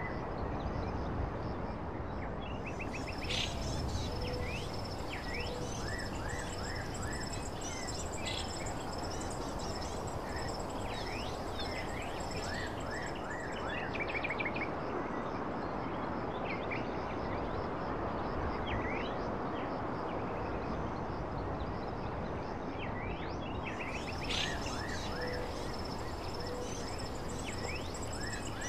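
Nature ambience: a steady rushing noise bed with repeated quick bird chirps and pulsing high insect trills that come and go in two long stretches.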